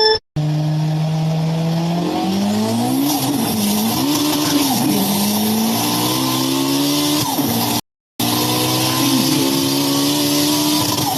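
Car engine sound revving up and down, its pitch climbing and falling repeatedly like gear changes, broken by two abrupt cuts to silence, one just after the start and one about eight seconds in.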